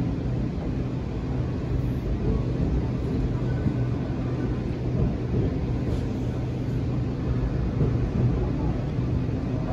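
BTS Skytrain electric train running, heard from inside the passenger car: a steady rumble with a low, even hum.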